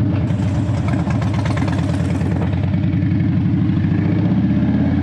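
Harley-Davidson V-twin motorcycle engine running on the move, with wind hiss. The engine note shifts about four seconds in.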